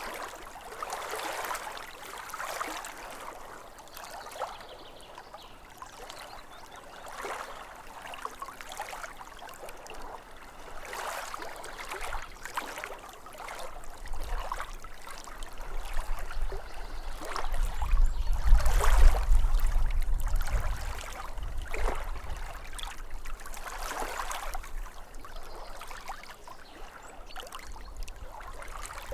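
Small lake waves lapping at the shore, an irregular wash or splash every second or two. A low rumble swells up about halfway through and fades a few seconds later.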